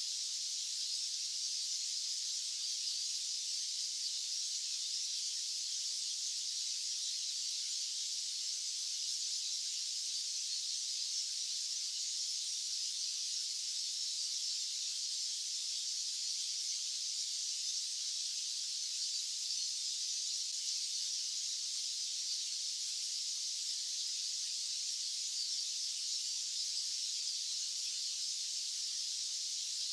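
White-noise track: a steady, high-pitched hiss with no low end, unchanging throughout.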